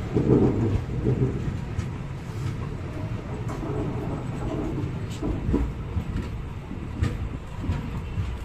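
Passenger train coach rolling along a station platform: a steady low rumble of the wheels on the track, louder just after the start, with a few sharp clacks as the wheels cross rail joints.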